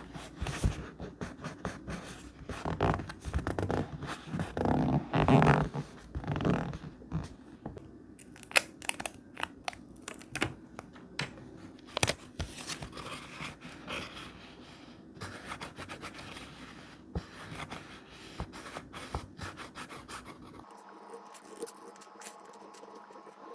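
Thick paper being handled for scrapbooking: rustling and scraping, with scattered light clicks and taps. The rustling is loudest about four to six seconds in, and lighter ticks follow.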